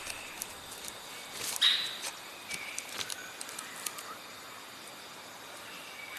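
Brief bird calls over a steady outdoor hiss, one louder high call about one and a half seconds in and a few fainter short ones after it, with scattered small clicks.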